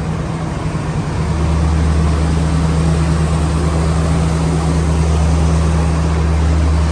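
Moving train: a steady low engine hum with running noise over it.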